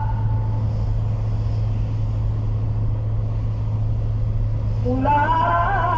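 Steady low hum of a running vehicle, with a faint even hiss over it.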